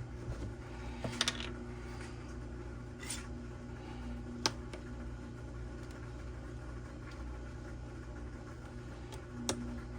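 A few short, light clicks and knocks, about four over several seconds, over a steady low hum.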